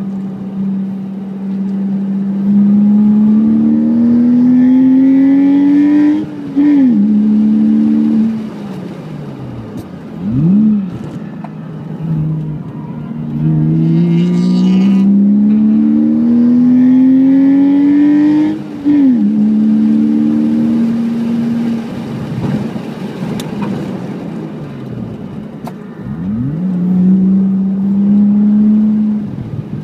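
Porsche Boxster flat-six engine heard from inside the cabin, pulling in second gear at around 3,000–4,000 rpm. Its pitch climbs steadily twice as the car accelerates, and several quick rises and falls in pitch in between are short throttle blips.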